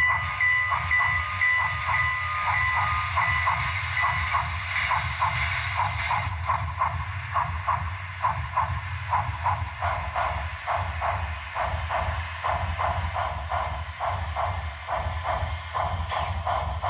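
Sound decoder of an HO-scale Broadway Limited Southern Pacific AC-5 cab-forward steam locomotive, playing a steady rhythm of exhaust chuffs over a deep rumble and hiss as the model runs. A bell dings repeatedly during the first few seconds.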